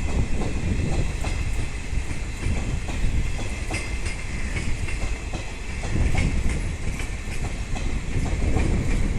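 Goods train wagons rolling past at close range, their wheels clattering over the rail joints in a steady clickety-clack over a low rumble, with a steady high ring from the wheels and rails.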